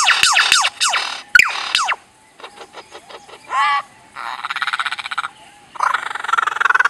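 Lyrebird mimicking other sounds: a quick run of falling whistled notes, several a second, stops about two seconds in. After a short pause comes a brief harsh rattle, then two spells of fast, pulsed rattling calls.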